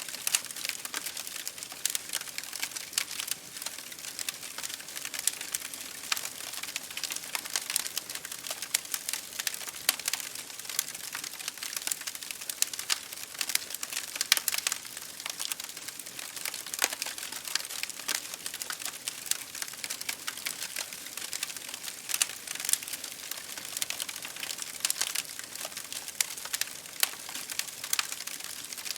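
Campfire burning wood, crackling in a dense, steady stream of small snaps, with a few louder pops scattered through.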